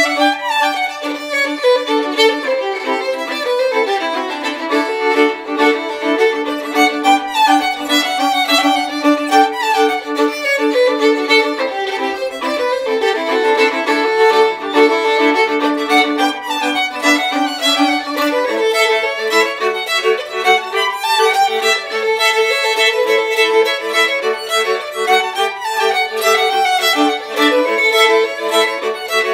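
Violin music: a lively tune of quick running notes over a steadily held lower note, with no bass or drums beneath.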